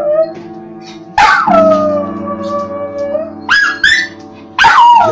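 A dog howling in long drawn-out calls, each sliding down in pitch and then held, with a short higher cry in between.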